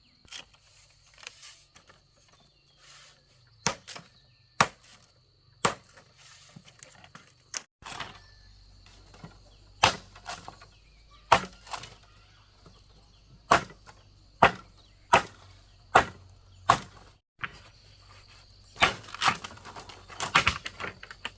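Repeated sharp knocks of something striking wood, about twenty blows at an uneven pace.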